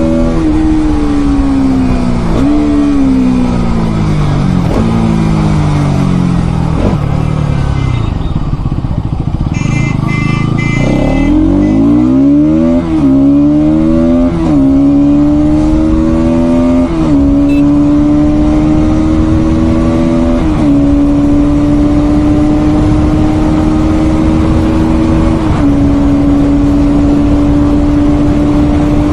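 Bajaj Pulsar NS200 single-cylinder engine on the move: the engine note falls off and slows, then climbs in steps, dropping back at each upshift as the bike accelerates through the gears. It then holds a steady note at cruising speed.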